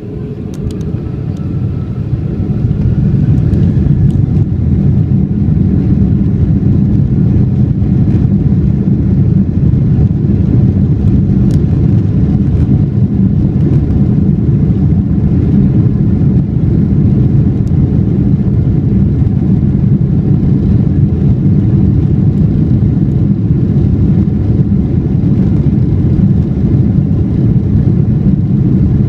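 Boeing 747-400 heard from inside the passenger cabin as its four jet engines spool up for takeoff: a rising whine and swelling noise over the first few seconds, then a loud, steady rumble through the takeoff roll.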